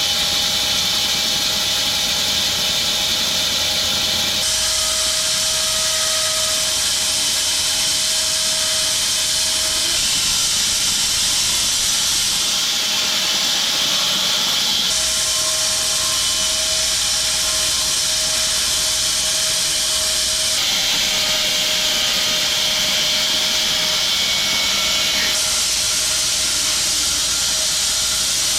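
Home-built 6 ft wide bandsaw mill running, its band blade cutting through a log: a loud, steady high rush with several steady tones beneath it. The sound changes abruptly every few seconds.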